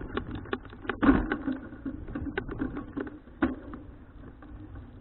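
Citi Cruiser CFH700 folding bicycle rattling and clicking irregularly as it rides over a rough surface, over a steady low rumble, with a heavier knock about a second in.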